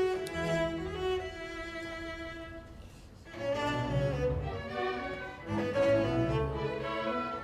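Cello and string orchestra playing classical music. The phrase fades away about three seconds in, and the strings return fuller a moment later.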